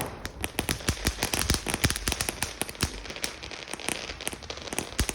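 A lit consumer firework going off: one loud bang right at the start, then rapid, continuous crackling pops.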